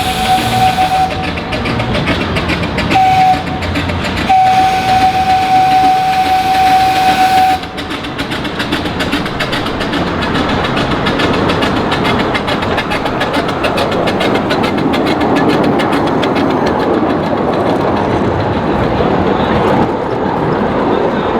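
Small amusement-park steam train's whistle blowing a long blast, a short toot and another long blast, then the train running on with fast, steady clicking of its wheels over the rail joints.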